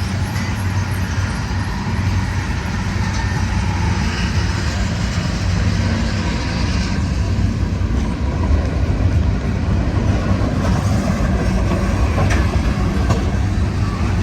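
A manifest freight train rolling past, with a steady rumble of wheels on rail and a few faint clicks.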